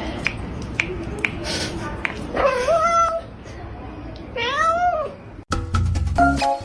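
A cat meowing twice, two drawn-out meows about two seconds apart, each rising and then falling in pitch. Music cuts in near the end.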